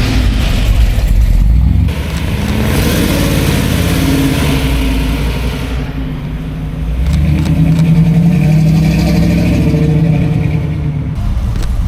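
Car engines revving and accelerating past, loud near the start and again from about seven seconds in.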